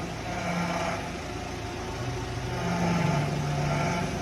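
GAZelle engine running with its new power-steering pump humming, the hum shifting in pitch and growing louder about two to three seconds in. The pump hums only under load, when steering is hard, and is quiet with the wheels lifted; the cause is not yet known.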